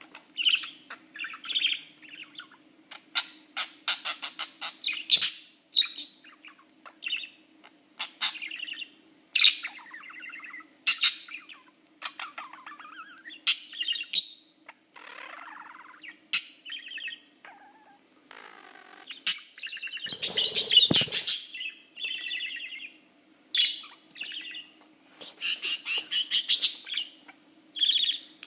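Budgerigar chattering and chirping in bursts of short warbles and squawks, with sharp clicks and taps mixed in, over a faint steady hum.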